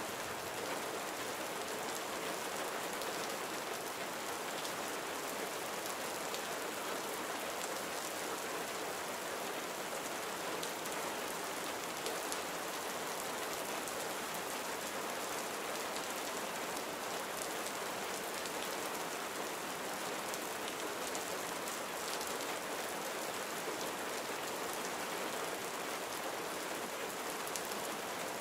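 Steady rain falling on surfaces, a dense even hiss with faint scattered drop ticks throughout.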